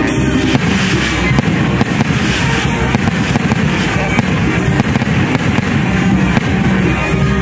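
Fireworks going off from a burning castillo firework tower: dense crackling and popping with rockets bursting, in quick succession. Music plays underneath.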